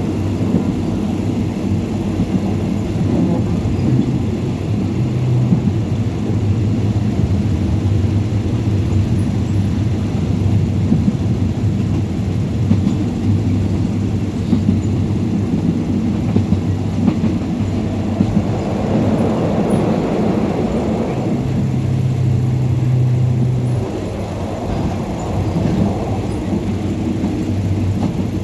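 Steady running noise of a moving vehicle: a continuous low rumble and hum, swelling louder for a few seconds about two-thirds of the way through.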